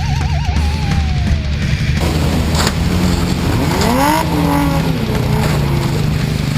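Electric-guitar music with a wavering held note gives way after about two seconds to a demolition derby car's engine, which revs up and down, with a sharp knock of impact about two and a half seconds in.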